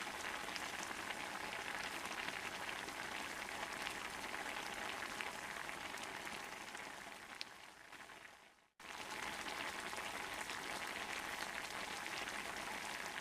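Wood fire burning under a hanging cast iron pot, with dense, steady crackling and small pops. It fades out and stops for a moment shortly before 9 s in, then starts again abruptly.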